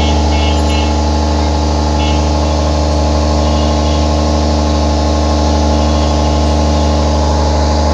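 Generator running loudly at a steady speed: a constant low drone with steady overtones and no change in pitch.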